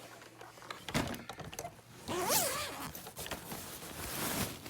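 Handling noises on a Kirby Avalir upright vacuum: irregular clicks, knocks and rustling, with a short squeak about two seconds in.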